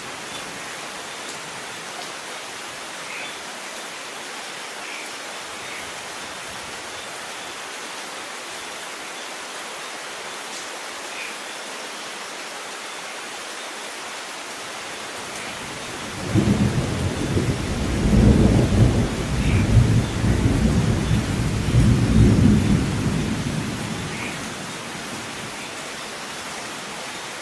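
Steady rain hissing, with a few drips ticking. About halfway through a deep rumble of thunder rolls in, swells in several waves and dies away.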